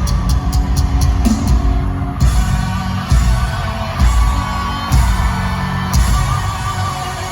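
Live rock band music played loud through a concert PA, without vocals: heavy bass with fast cymbal ticks that stop about two seconds in, then hard bass-drum hits about once a second.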